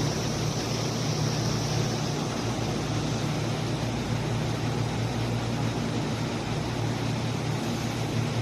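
Steady rumble and low hum of an electric commuter train, the JR East E233-2000 series set, with an even noise throughout and no sudden events.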